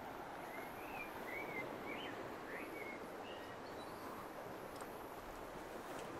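A small bird sings a short run of quick sliding, warbling notes, about six of them, in the first half, over a steady rushing background noise.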